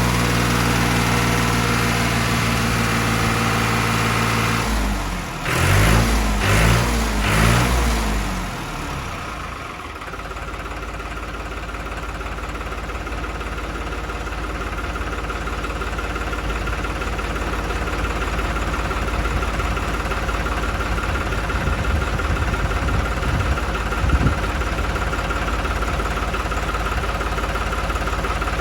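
New Holland 3630 tractor's diesel engine running after a head gasket repair. It holds a steady speed, is revved up and down a few times around five to eight seconds in, then settles to a steady idle.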